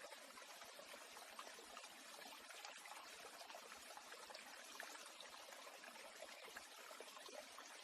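Faint, steady sound of flowing water, like a small stream trickling, with no bird song.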